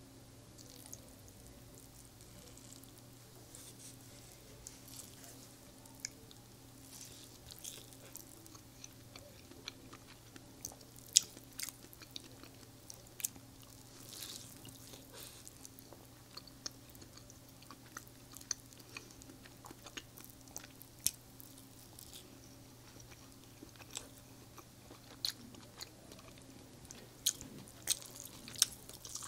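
Chewing of a soft, syrup-soaked rasgulla: wet mouth sounds and lip smacks, with short sharp clicks scattered irregularly through.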